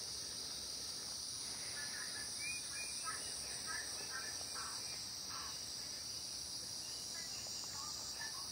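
Outdoor ambience dominated by a steady, high-pitched insect chorus, with faint short scattered sounds in the background.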